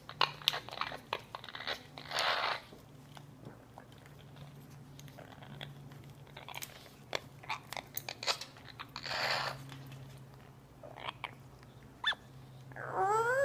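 Amazon parrot chewing and biting, with irregular crunching clicks and two short hissing bursts, over a steady low hum.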